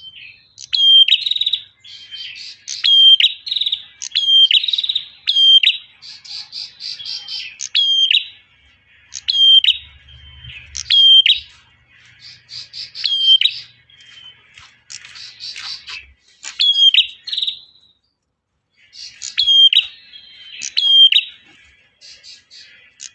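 Prinia singing a loud, repeated chirping call about every one to two seconds. Each sharp note drops in pitch and fast trills fill the gaps between them, with a brief pause about three quarters of the way through.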